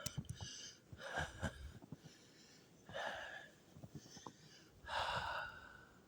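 A man breathing hard and out of breath after trudging through ankle-deep snow in bitter cold: three heavy exhales, about two seconds apart.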